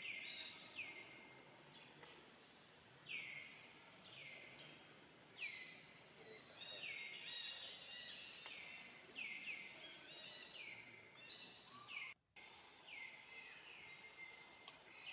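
A bird calling over and over in the background, more than a dozen short calls that each slide down in pitch and then level off, at uneven intervals over a faint outdoor hiss.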